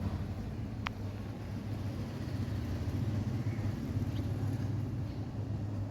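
A steady low rumbling hum, with one sharp click a little under a second in.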